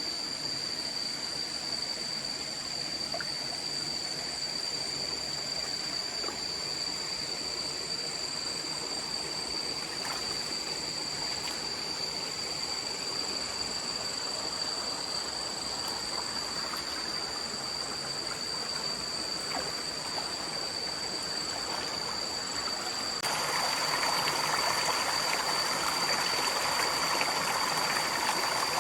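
Stream water running steadily, with a constant high-pitched tone above it. About 23 seconds in, the water abruptly gets louder.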